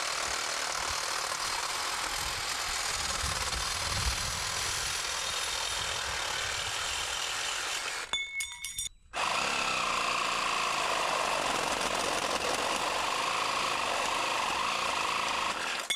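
A power tool cutting through the thin metal feet of a metal chicken coop, running steadily, stopping for about a second midway, then cutting again.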